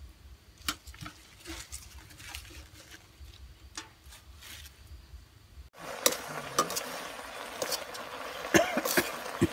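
Leafy greens rustling softly with a few light clicks as they are laid into a steamer pot. About two-thirds of the way through it switches to chillies and shallots frying in a wok: a steady sizzle with a metal spatula scraping and clinking against the pan.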